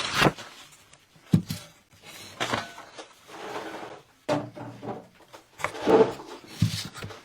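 Intermittent knocks and scrapes of wooden signs and painting supplies being handled on a tabletop, a few separate clatters with quiet gaps between them.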